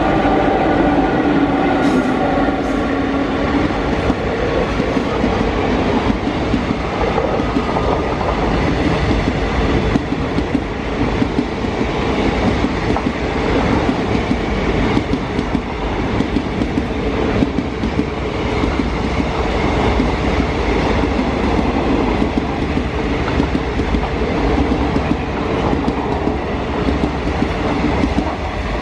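Locomotive horn trailing off in the first few seconds, then a long passenger train's coaches rolling steadily past close by, with a continuous rumble and rail-joint clickety-clack.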